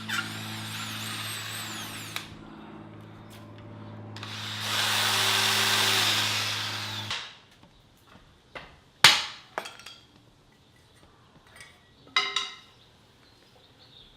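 Electric power drill running steadily, growing louder for a couple of seconds as it works into the wood, then stopping about seven seconds in. Afterwards come a few light clicks and knocks, with one sharp knock about two seconds later.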